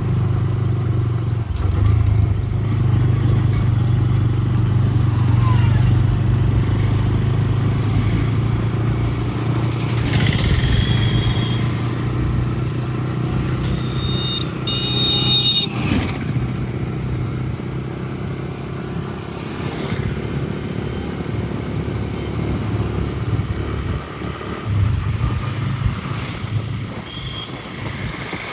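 Motor vehicle engine running steadily close by in road traffic: a low, even hum that eases slightly in the second half.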